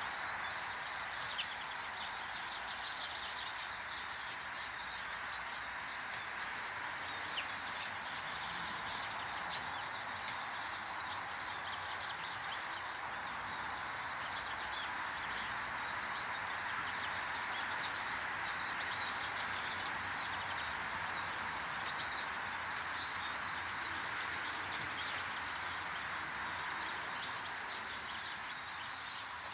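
Small garden birds chirping and twittering at a bird table, with many short high calls throughout over a steady background hiss. A couple of small clicks come about six seconds in.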